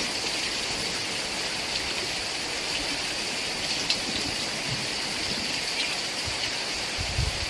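Heavy rain falling steadily, an even hiss with a few faint drop ticks, and some low thuds near the end.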